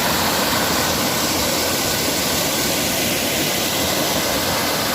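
Waterfall's rushing water: a loud, steady roar with no change.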